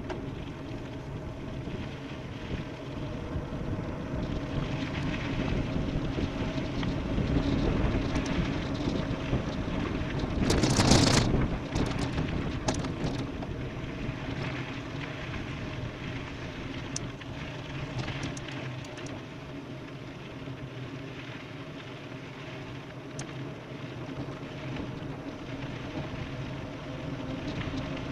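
Wind rushing over the microphone with tyre and road noise from an e-bike descending at speed, over a steady low hum; the wind surges loudly for about a second midway.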